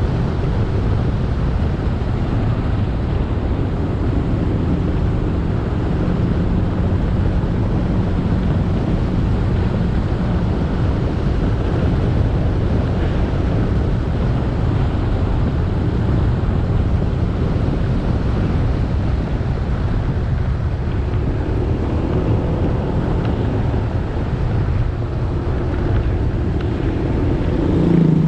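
Motorcycle engine running as it is ridden, with steady road and wind rumble on the microphone.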